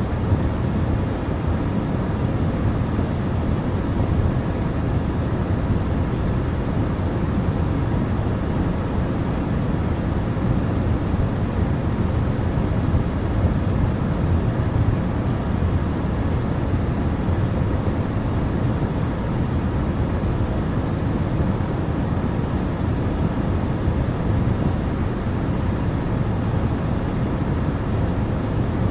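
A car driving at steady speed: an even, unchanging rumble of engine and road noise.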